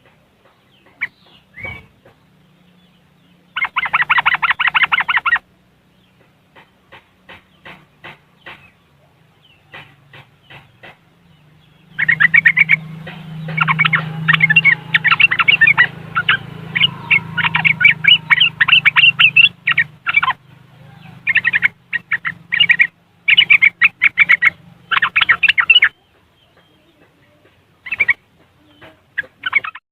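Yellow-vented bulbul (trucuk) giving its rapid chattering 'ngriwik' calls in bursts: a fast trill about four seconds in, scattered single notes, then a long dense bout of chattering from about twelve to twenty-six seconds, and a few last notes near the end.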